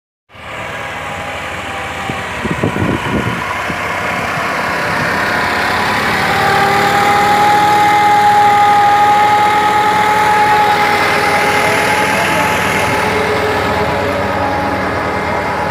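Farm tractor's diesel engine running steadily, with a whine that comes in about six seconds in as the sound grows louder.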